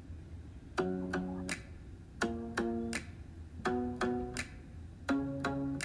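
Guitar playing an instrumental intro: four chords in turn, each struck about three times, with a new chord roughly every second and a half.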